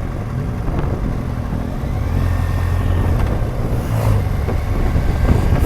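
BMW R1200GS Adventure's boxer-twin engine running on the move, heard over steady wind rush; the engine note grows stronger about two seconds in.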